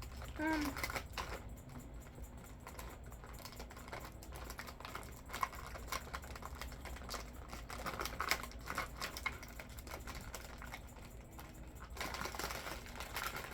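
Crunching and chewing an Oreo cookie close to the microphone: many small crisp clicks, with a short hummed "mm" about half a second in.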